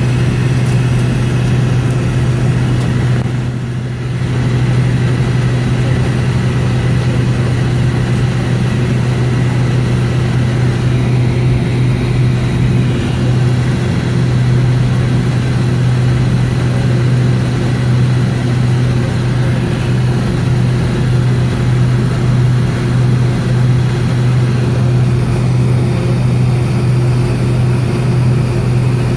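Cabin drone of a Boeing 757's Pratt & Whitney PW2037 turbofans at low ground power, heard from inside the cabin: a steady low hum with a fainter steady tone above it, dipping briefly about four seconds in.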